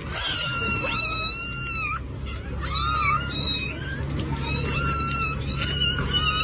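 A cat mewing, a run of high-pitched calls one after another, over a low steady hum.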